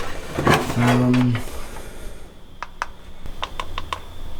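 A brief voiced murmur, then a quick run of about seven sharp, light clicks over the last two seconds, like laptop keys being tapped.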